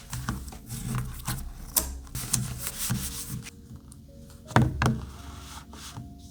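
Craft materials being handled on a work surface: about three seconds of rubbing and scraping strokes, then two close knocks a little past the middle, over soft background music.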